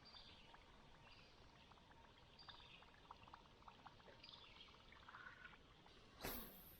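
Near silence on still water, with faint light ticks, then a short splashing swish of water about six seconds in.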